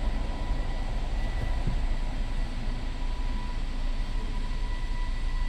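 Toyota Tacoma pickup running and rolling slowly backwards in reverse: a steady low engine and road rumble, with a faint steady high tone over it.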